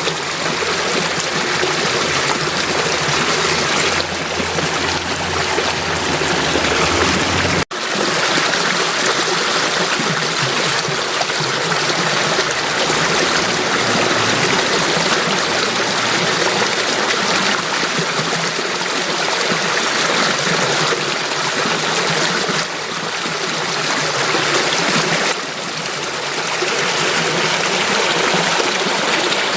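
Flowing water running steadily, with a dense, even sound. It cuts out for an instant about eight seconds in, and a low rumble heard before that point stops there.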